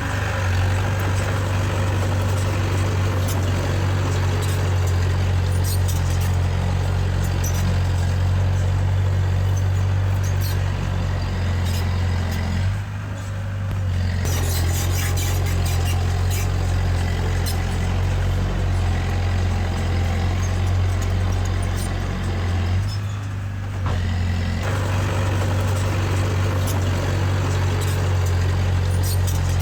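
Heavy diesel earthmoving machinery running steadily with a deep engine drone and scattered metallic clicks and clatter. The sound dips briefly twice, about 13 and 23 seconds in.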